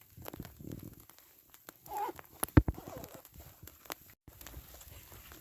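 Small hail pellets hitting, heard as irregular light ticks and taps, with one louder knock about two and a half seconds in.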